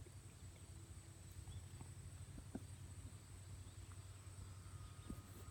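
Near silence: a low steady background hum with a couple of faint ticks, one about halfway through and one near the end.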